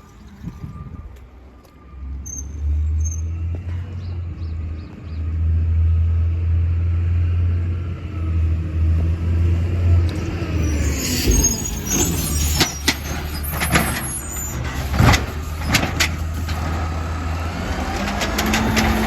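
Compost collection truck: its heavy engine starts running low and steady about two seconds in. From about halfway, a run of sharp knocks and clatter with high squeals comes over the engine.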